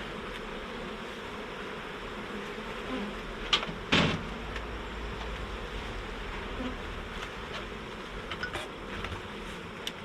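Honey bees buzzing steadily around the hive. A couple of sharp knocks sound about three and a half to four seconds in, with a few fainter clicks later.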